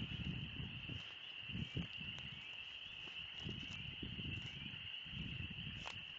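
Dense chorus of spring peepers calling: a steady, high-pitched, unbroken wall of peeps, with low rustling underneath.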